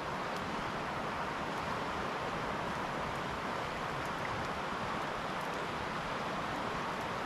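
Steady rushing of flowing river water, an even noise that holds the same level throughout.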